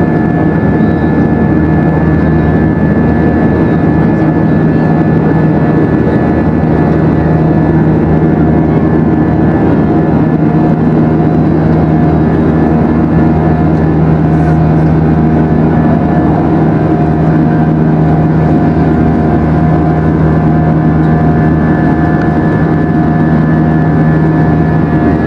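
Airbus A321 cabin noise in flight: the engines' steady drone with constant humming tones and airflow rush, unchanging throughout.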